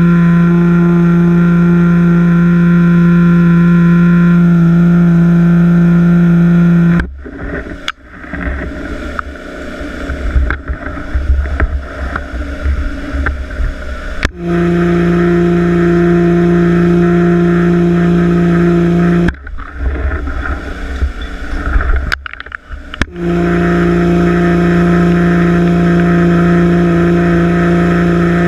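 Pressure washer running with a loud, steady hum while it sprays. The hum cuts off suddenly about seven seconds in, then twice starts again and stops, with rougher, uneven noise in the gaps.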